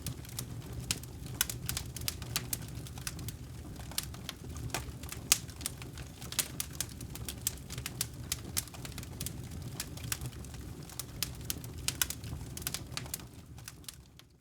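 Wood fire burning in a fireplace: a steady low rumble of flames with frequent sharp, irregular crackles and pops, fading out at the very end.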